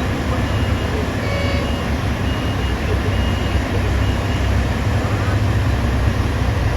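Heavy diesel mining machinery running steadily with a loud low drone, while a high reversing alarm beeps on and off over it.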